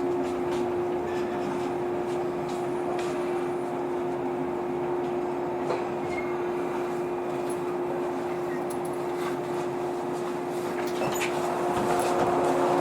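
Inside a JR 115-series electric train car standing at a station: a steady hum from the train's onboard equipment, with a few faint clicks. The hum grows louder near the end.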